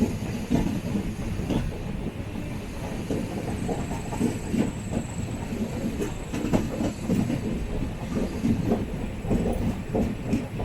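An Indian Railways sleeper-class coach running along the track: a steady low rumble with irregular clicks and knocks as the wheels pass over rail joints.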